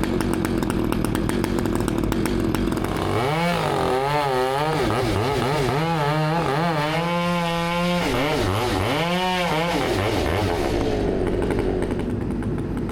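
Two-stroke chainsaw cutting, its engine pitch swinging up and down repeatedly for about seven seconds and holding steady for a moment in the middle, over a steady engine hum.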